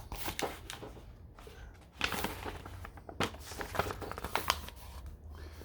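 Irregular paper rustling and crinkling, with small crackles that grow louder about two seconds in.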